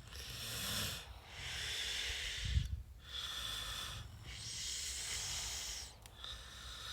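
A person breathing close to the microphone: about four long, hissy breaths in and out with short pauses between them.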